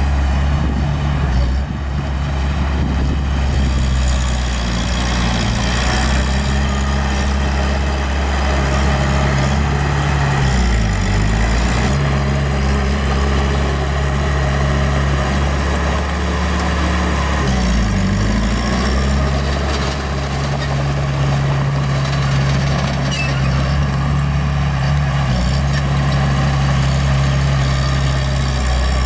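Diesel engine of a small bulldozer running steadily, its pitch dipping briefly twice, near the middle and again about two-thirds of the way through.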